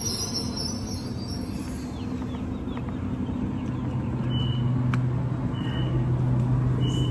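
Electric suburban passenger train with a steady low hum, its drone growing louder about four seconds in. Short high beeps repeat about every second and a half from about four seconds in.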